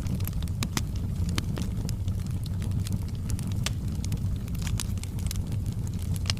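Bonfire burning: a steady low rumble of the flames with irregular sharp crackles and pops of the burning wood, several a second.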